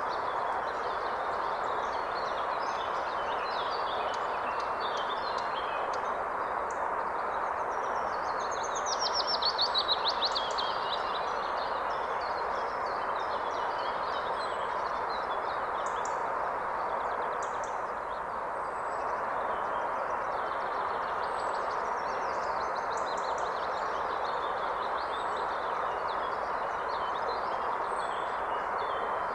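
Steady rushing of a forest river, with songbirds singing over it. The loudest bird call is a rapid trill about eight seconds in.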